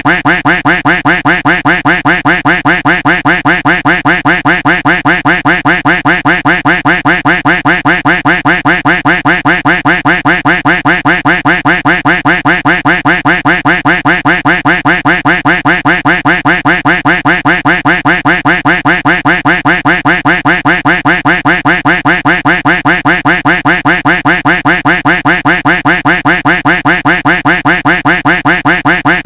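A duck quack sound effect looped over and over at a fast, perfectly steady rhythm, several quacks a second, each identical.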